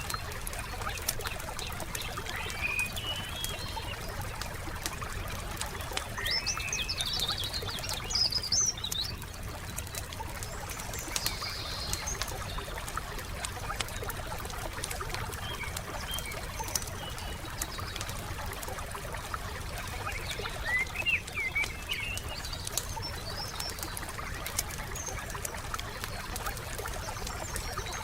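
Wood fire crackling with a steady patter of small pops, while small songbirds chirp in short bursts several times, most clearly a few seconds in and again about twenty seconds in.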